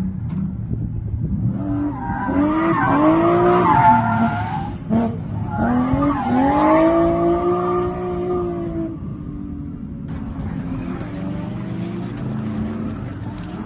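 Drift car engine revving hard through a slide, with tyre squeal: the revs climb and hold in two long pulls with a short break about five seconds in. After about nine seconds it drops to a lower, quieter running as the car moves off.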